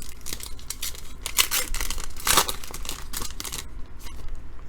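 Foil wrapper of a trading-card pack being torn open and crinkled by hand: a run of ripping and crackling, loudest about halfway through, that stops about a second before the end.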